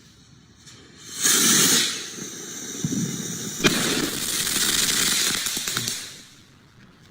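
A firework going off: a loud hiss starts about a second in, then keeps hissing with a single sharp bang partway through, and dies away about six seconds in.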